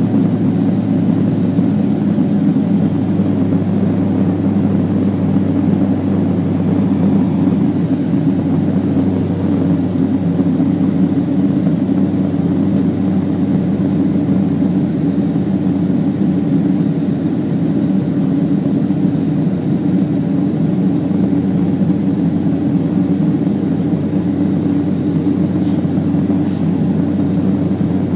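Beech 1900C's twin turboprop engines and propellers holding a loud, steady drone at high power, heard from inside the passenger cabin.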